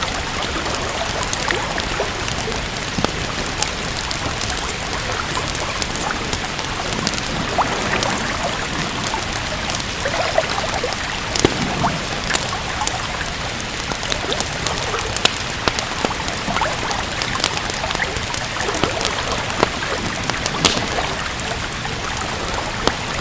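Steady rain with scattered sharp crackles and pops of a wood fire.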